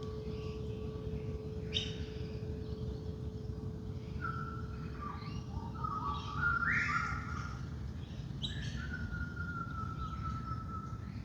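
Wild birds calling in a dawn chorus: a sharp call, then a run of short whistled notes at stepping pitches, then a call that ends in a long held whistle. Underneath, the steady hum of a singing bowl fades out partway through, over a low background rumble.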